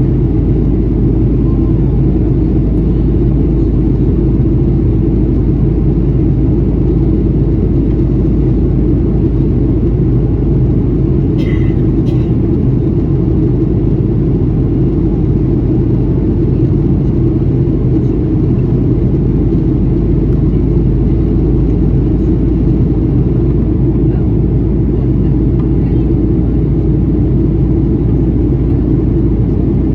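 Steady cabin drone of a Boeing 737-800 in flight: its CFM56 engines and the airflow, heard from a window seat. A brief click sounds a little before the middle.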